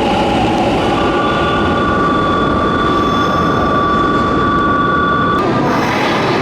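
Electric commuter train moving along the station platform with a loud, steady rumble. From about a second in, a steady high-pitched squeal from the wheels or brakes sounds on one pitch and stops suddenly about five seconds in.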